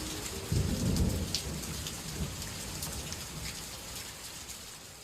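Steady rain falling, with a low roll of thunder about half a second in; the sound fades away toward the end.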